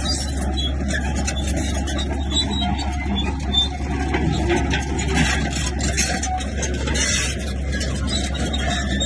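Komatsu bulldozer's diesel engine running steadily, with scattered knocks and clatter over it.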